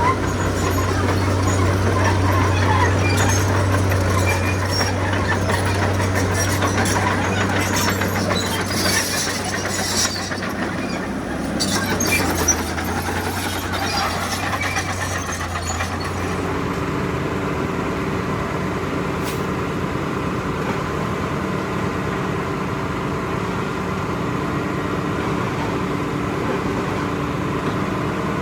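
Heavy diesel earthmoving machinery working: a deep engine drone with intermittent metallic clanking, changing about sixteen seconds in to a steadier engine hum.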